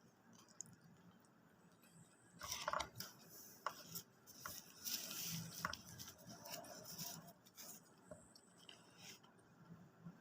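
Irregular crinkling and rustling of takeout food packaging being handled, with a few sharp clicks and taps, in scattered bursts from about two seconds in until near the end.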